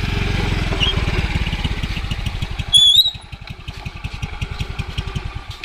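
A small engine running with a fast low putter that slows and fades over a few seconds. A short high, whistle-like chirp sounds about three seconds in.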